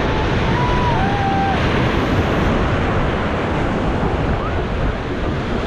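Wind buffeting the microphone over the steady wash of ocean surf, with a few faint short gliding tones in the first two seconds.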